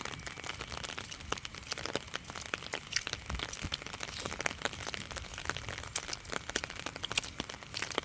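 Light drizzle pattering as dense, irregular crackling taps, with a faint low rumble underneath.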